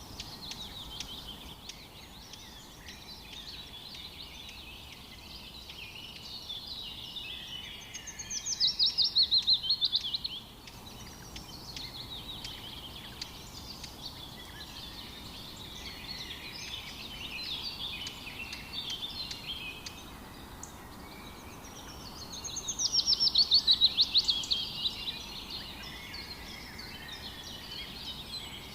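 Wild songbirds singing in a continuous chorus, with a loud, fast trill that falls in pitch heard twice, about eight seconds in and again near the end.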